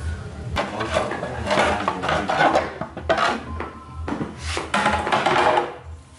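Hard objects scraping and rubbing against each other in several loud spells of a second or so, with a few sharp clicks.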